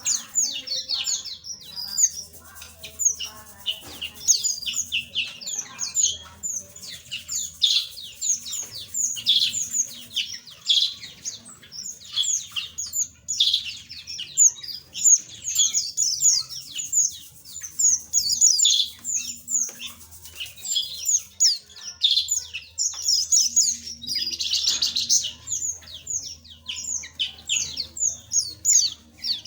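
A flock of small aviary birds chirping and twittering continuously, many voices overlapping in rapid high-pitched chirps.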